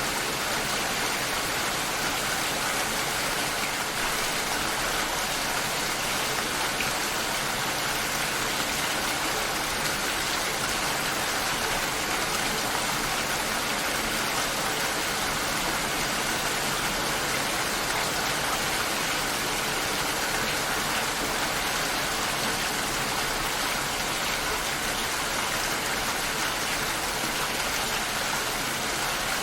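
Steady rain shower falling, an even continuous hiss of rain without breaks.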